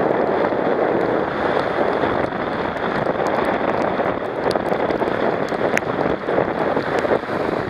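Wind rushing over the camera microphone on a motorcycle riding in the rain, a steady loud rush with a few faint ticks scattered through it.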